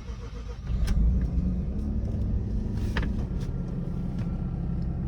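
Cold start of a 1994 Mazda RX-7's twin-turbo 13B rotary engine: it cranks, catches and comes up louder about a second in, then runs at a steady, rumbling high idle.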